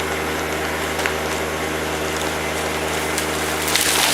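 An engine running steadily at constant speed. Near the end a short hiss rises, and the engine sound cuts off abruptly.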